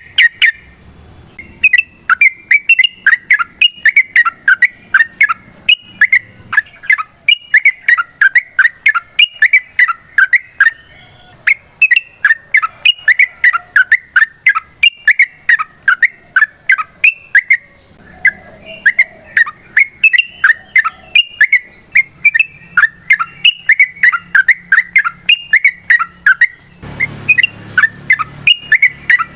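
Yellow-vented bulbul (trucukan) singing a long, fast run of short chattering notes, with two brief breaks. A short low noise comes in near the end.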